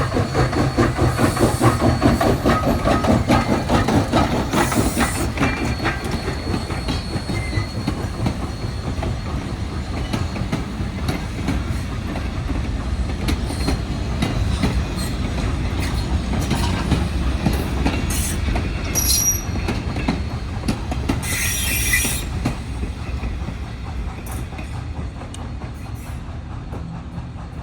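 A steam-hauled freight train rolling past, its steel wheels clattering over the rail joints, with a few brief high squeals of wheel on rail about two-thirds of the way through. The clatter is loudest at first and fades as the train moves away.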